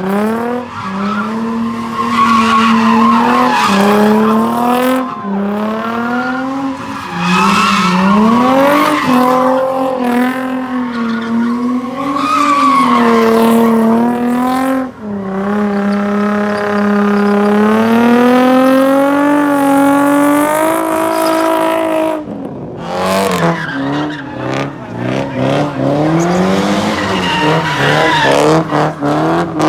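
Car engine revving hard, its pitch climbing and falling again and again and held high for several seconds in the middle, with tires squealing and skidding.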